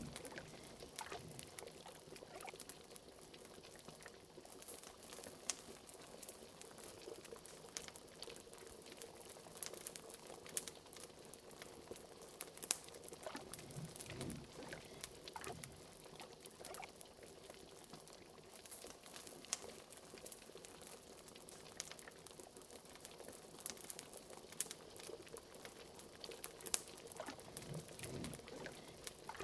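Cauldron liquid bubbling, with an occasional deeper bubble, mixed with the crackle of a fireplace: a steady scatter of small sharp pops and clicks.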